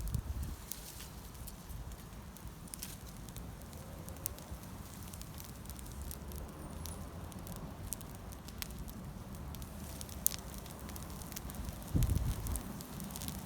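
Wood campfire burning, with irregular sharp crackles and pops over a low steady rumble. A louder low thump comes near the end.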